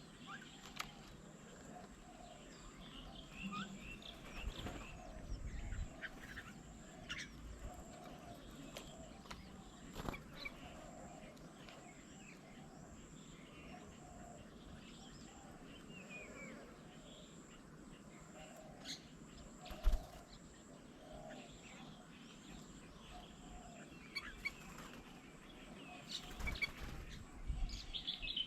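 Garden birds at a bird table: scattered short chirps and calls, a low call repeated evenly in the background, and a few sharp knocks and wing flaps, the loudest knock about two-thirds of the way through, with a busier flurry of calls near the end.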